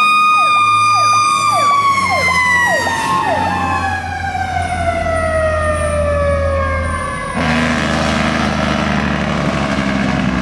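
A fire truck's mechanical Federal Q siren held at its top pitch, then winding down in a long slow fall, while a second siren's quick falling sweeps cut across it in the first few seconds. About seven seconds in the siren dies away, leaving the rumble of the truck's engine.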